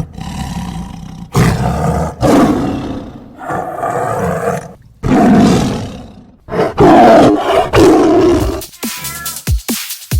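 Cats giving five long, loud roaring calls one after another. Near the end an electronic beat with thumping kicks starts.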